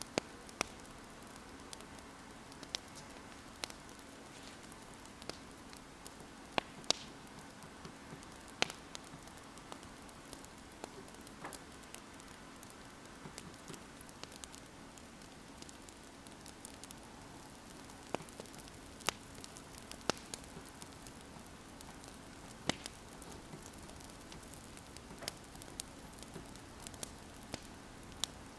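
Wood fire crackling, with sharp, irregular pops and snaps over a steady low hiss.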